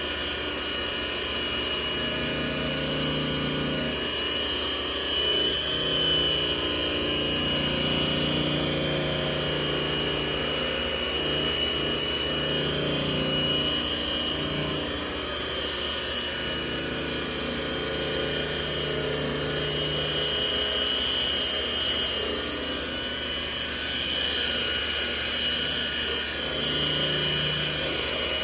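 Electric polishing machine running steadily on the paintwork, a constant high whine with a lower hum that rises and falls as pressure on the pad changes.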